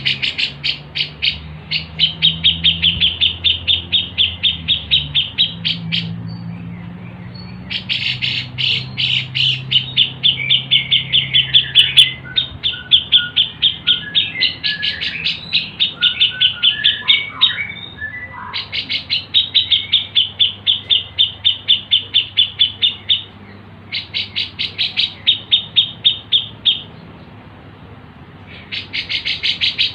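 A small songbird chirping in rapid, even series of high chirps, about five a second. The chirps come in bouts of a few seconds separated by short pauses, with some scattered lower notes in the middle.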